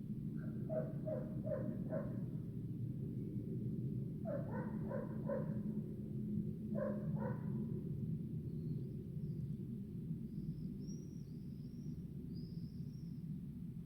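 Short barking calls from an animal in three quick runs of a few calls each, over a steady low rumble. Small birds chirp high and quick in the second half.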